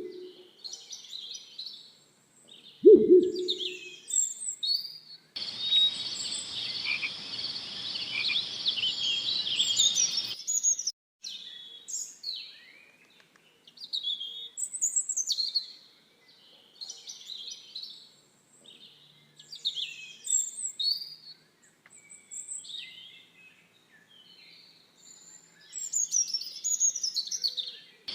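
Several songbirds chirping and trilling in quick, overlapping phrases, with a short low call about three seconds in. From about five to ten seconds in, a steady hiss with a high, even buzz runs under the birds and then cuts off abruptly.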